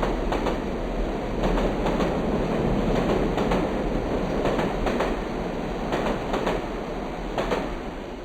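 Steady mechanical running noise with a rattle of irregular clicks, cutting off suddenly at the very end.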